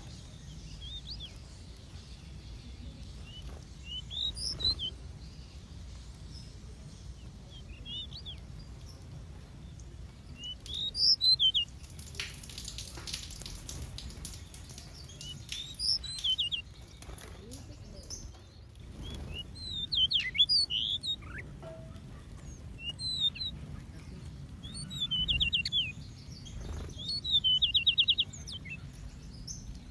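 Small aviary birds chirping in short, scattered calls, with a couple of rapid buzzy trills near the end. A brief rustling noise comes about twelve seconds in, over a low steady hum.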